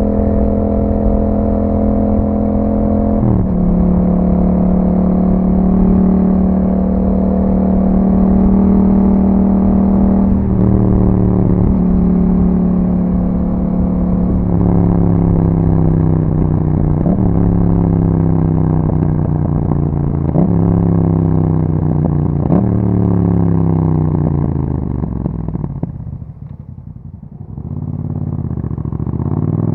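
2021 Yamaha MT-07's parallel-twin engine through an Akrapovic exhaust, riding at a steady pace and then slowing, with revs falling in steps and a series of short rev blips as it shifts down. It drops to a low, quieter idle about 26 seconds in, then revs climb again near the end as it pulls away.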